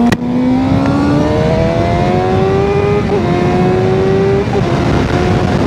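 Sportbike engine with its exhaust removed pulling hard under acceleration, its pitch climbing, with quick upshifts about three and four and a half seconds in. Wind rush runs underneath.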